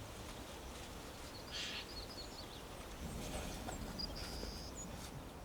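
Outdoor ambience with birds chirping: short high chirps, one brief steady whistled note a little past the middle, over a low steady background rumble.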